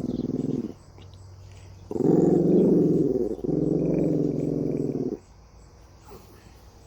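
A dog growling in three rough, low stretches, the middle one the loudest, then stopping about five seconds in.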